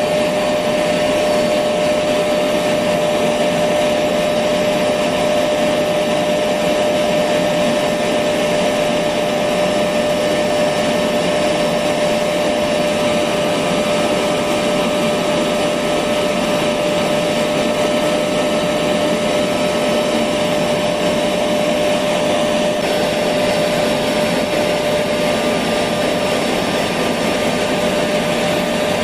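Electric vacuum cleaner running steadily: a continuous rushing noise with a held whine, its tone shifting slightly about three-quarters of the way through.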